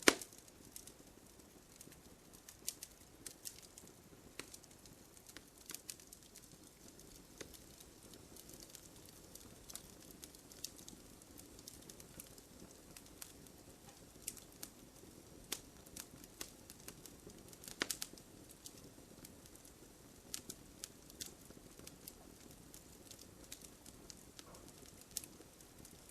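Wood bonfire crackling: irregular sharp pops and snaps over a soft steady hiss of flames, with the loudest pops at the very start and about eighteen seconds in.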